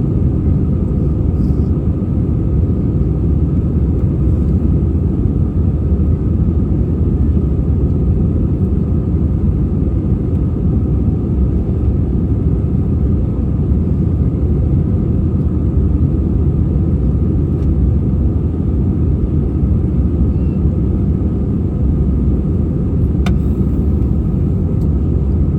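Steady, loud engine and airflow rumble inside the cabin of an Airbus A320-232 with IAE V2500 engines, unchanging throughout, with one faint click near the end.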